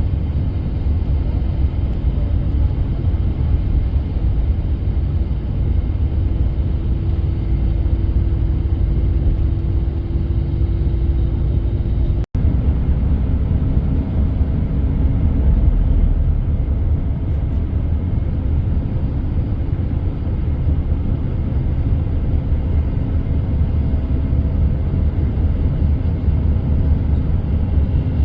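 Intercity coach bus on the road: a steady low engine and road rumble with a faint steady hum, cutting out for an instant about twelve seconds in.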